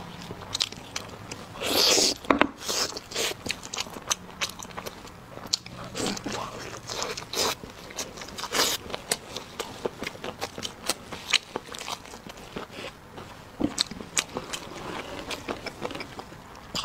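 Close-miked chewing and biting of braised pork ribs: wet smacking and mouth clicks with crunches as meat is torn from the bone, and one louder burst of noise about two seconds in.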